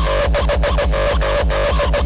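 Loud hard-dance electronic music from a hardstyle DJ set: a fast, even run of heavy kick drums under a sustained synth line.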